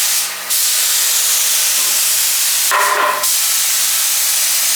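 Paint spray gun spraying: a loud, steady hiss that briefly drops off about half a second in, then runs on.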